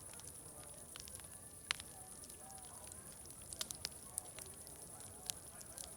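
Wood fire crackling, with irregular sharp pops, the loudest a little under two seconds in. Behind it is a faint murmur of distant crowd chatter.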